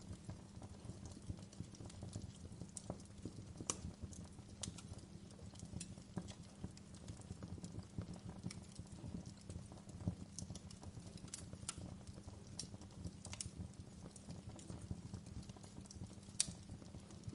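Wood fire crackling in a fireplace: irregular sharp pops and snaps over a low steady rumble of the burning fire, with a louder pop about four seconds in and another near the end.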